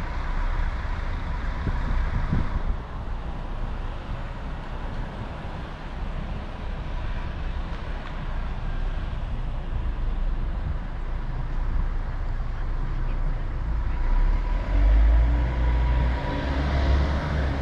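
Road traffic heard from a moving bicycle, with wind rumbling on the microphone; the sound grows louder with a low engine-like tone near the end.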